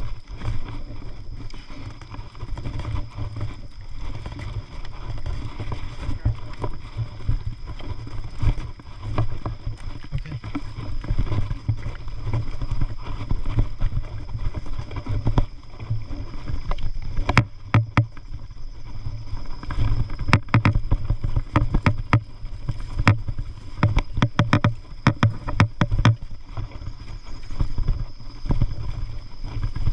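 Mountain bike ridden along a trail: low wind rumble on the microphone, with the bike rattling and knocking over bumps, clattering most often in the second half.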